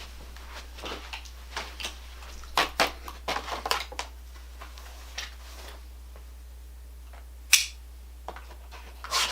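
Irregular small clicks, snaps and scrapes of exercise-bike parts being handled and worked by hand. They are busiest a few seconds in, with one sharp snap about three-quarters of the way through.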